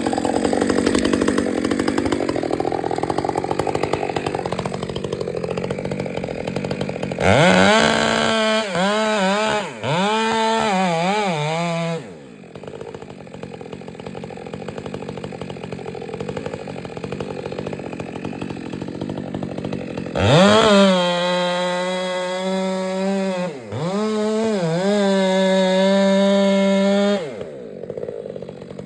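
Two-stroke chainsaw running at full throttle in two long spells, its high whine dipping and recovering several times as the chain bogs in the cut, with a lower running sound before and between: the felling cut on a pine.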